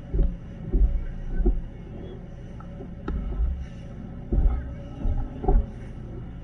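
Boat motor running with a steady low hum, broken by irregular heavy low thumps every half second to second.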